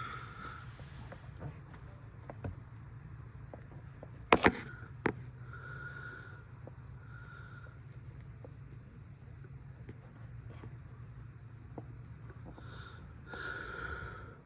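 Steady high insect trill over a low hum, with a sharp pair of knocks about four seconds in and a lighter one just after.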